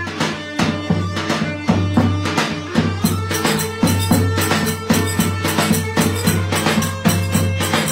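Traditional Turkish folk dance music: a fast, even drum beat under a sustained melody line.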